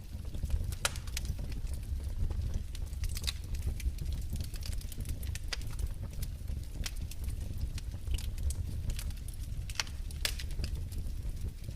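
Wood fire crackling in a fireplace: irregular sharp pops and snaps scattered over a steady low rumble of burning.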